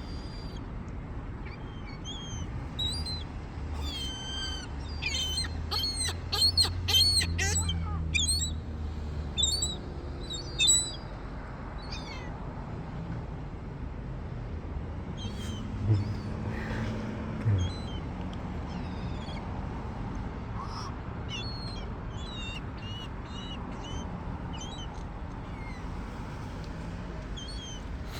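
Gulls calling, many short high cries over a steady low rumble, with a dense, loud burst of calls between about five and eight seconds in and scattered calls through the rest.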